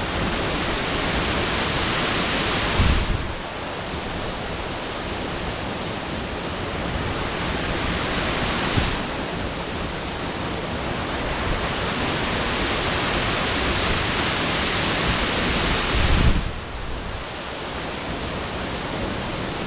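Tonosumi Falls, a 15-metre waterfall, rushing steadily. The hiss swells louder several times, with brief low thumps about three seconds in and near sixteen seconds.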